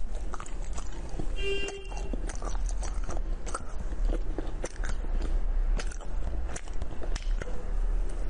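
Close-miked biting and chewing of a unicorn lollipop candy: an irregular run of sharp crunches and clicks, with a short pitched squeak about a second and a half in.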